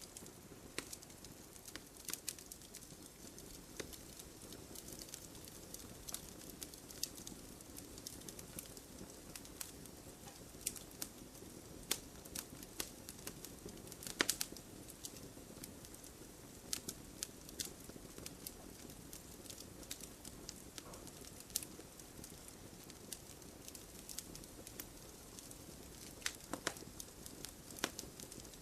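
Wood campfire burning: a soft steady rush of flame with frequent irregular sharp pops and crackles, the loudest pop about halfway through.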